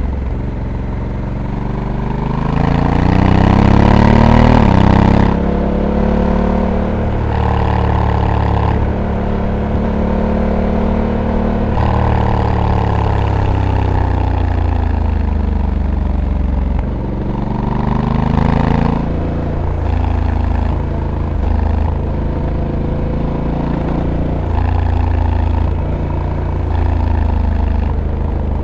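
Honda Africa Twin's 1084 cc parallel-twin engine heard onboard while riding. Its revs climb for a few seconds and then drop suddenly at each shift of the dual-clutch transmission, several times over. The revs fall away about halfway through before pulling up again.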